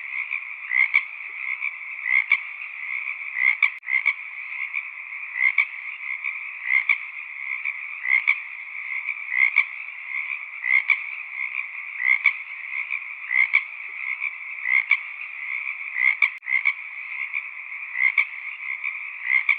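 A chorus of frogs croaking in a continuous trilling background, with louder individual calls repeating about every second and a half.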